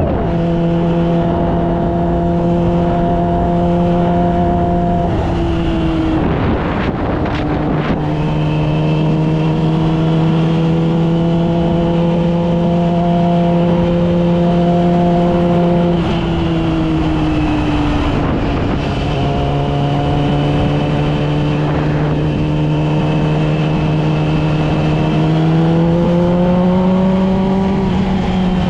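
Yamaha R6's inline-four engine running at steady cruising revs while riding. Its pitch drops twice, about five and sixteen seconds in, and climbs near the end.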